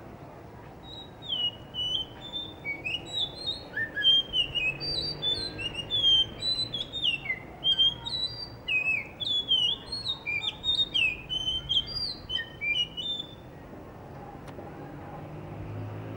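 Blue whistling thrush singing a long, rapid run of short whistled notes that swoop up and down in pitch, stopping about thirteen seconds in.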